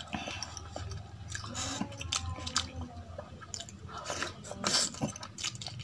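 Close-miked mouth sounds of a person chewing and biting a hand-fed mouthful of rice and kadhi pakoda. Wet chewing is broken by several sharp, crunchy bites, the loudest near the end.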